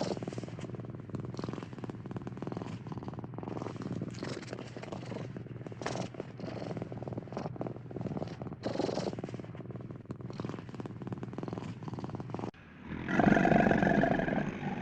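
Domestic cat purring steadily, a close, continuous rumble. Near the end it cuts off abruptly and a louder, different sound with steady pitched tones takes over.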